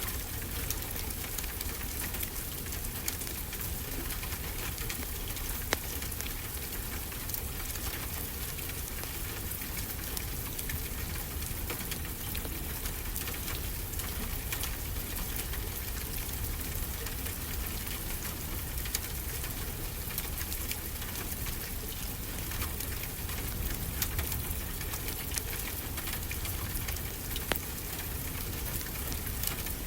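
Wood fire crackling with many small, scattered pops over a steady low wash of ocean surf.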